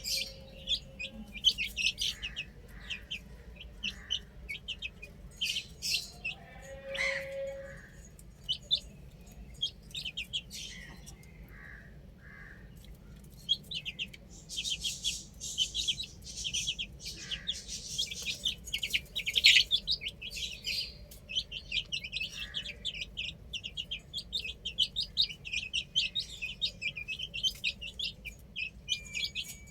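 Chicks peeping: many short, high chirps overlapping, with a denser stretch of chirping in the middle and one lower call about seven seconds in.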